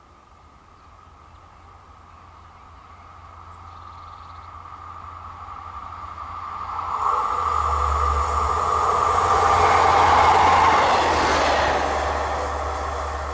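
Passenger train on an electrified main line approaching and passing by, its sound growing steadily louder, peaking about ten seconds in as it goes past, then fading. A steady whine rides over the rushing of the wheels on the rails.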